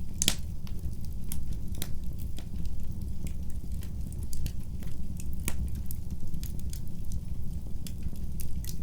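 Wood fire burning in a fireplace, with irregular sharp crackles and pops over a steady low rumble of the flames; the loudest pop comes just after the start.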